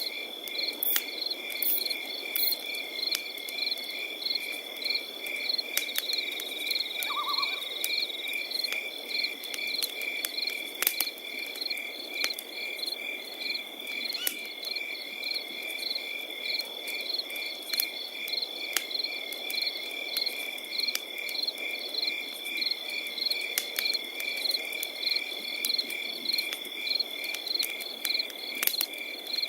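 Crickets chirping: rhythmic, evenly repeated chirps over a continuous high trill, with a campfire crackling in scattered sharp pops.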